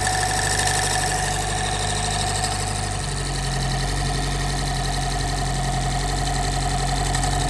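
Turbocharged Honda B-series four-cylinder idling steadily, freshly fitted with new lash adjusters and Skunk2 cam gears, with a light tapping that the crew traces to the cam gear bolts rubbing the inside of the valve cover.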